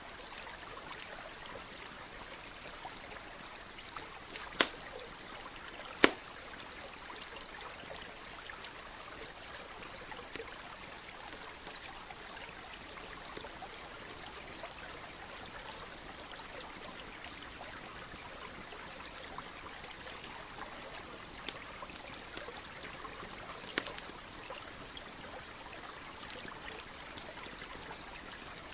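A stream trickling steadily under a crackling wood campfire, with scattered small snaps and two sharp, loud pops about four and six seconds in.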